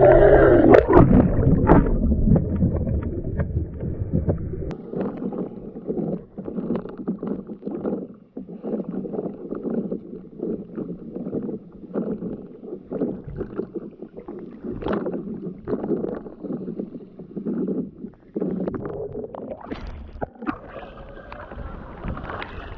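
Kayak on lake water: irregular paddle strokes splashing and water sloshing against the hull, with a louder rumbling stretch in the first few seconds.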